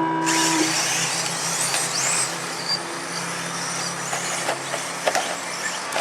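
Race start tone beeping for about half a second. Right after it, a pack of radio-controlled stadium trucks launches off the line: a dense, loud hiss of motors and tyres, with high-pitched motor whines rising and falling.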